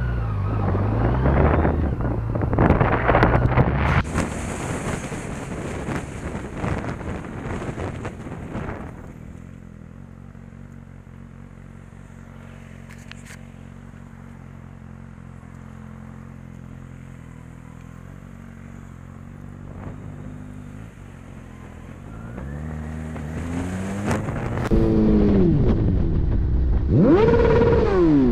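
Motorcycle engine and road noise: loud rushing at first, settling to a steady low running note for a long stretch, then the engine revs up and changes pitch repeatedly near the end, as when accelerating through the gears.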